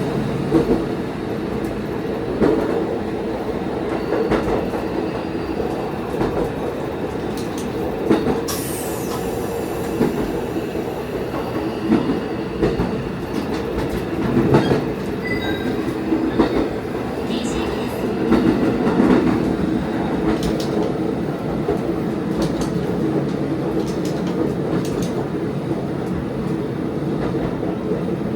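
Diesel railcar running along the line, heard from on board: a steady engine drone with irregular clicks of the wheels over rail joints, and a brief high squeal about eight seconds in.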